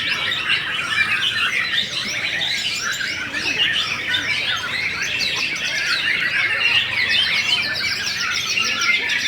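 Many caged white-rumped shamas (murai batu) singing at once, a dense, unbroken chatter of fast overlapping chirps, trills and whistled glides.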